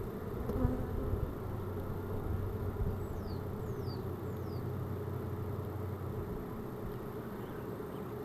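Honeybees buzzing around an open hive during an inspection, with a steady hum that grows stronger from about half a second in until about six seconds in. Three quick high chirps, each falling in pitch, come between about three and four and a half seconds in.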